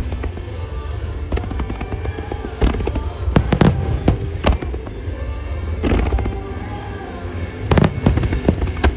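Aerial firework shells bursting one after another in a music-synchronised starmine display, sharp booms and crackles with the biggest volleys about three and a half and eight seconds in. Pop music plays over loudspeakers underneath.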